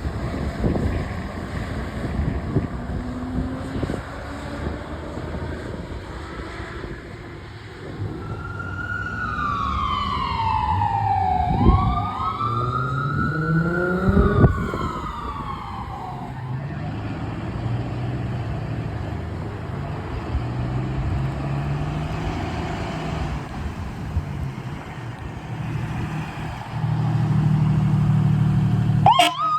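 Emergency vehicle siren sweeping down and back up in pitch as it passes, about eight to sixteen seconds in, over steady road traffic and engine noise. Another siren starts abruptly right at the end.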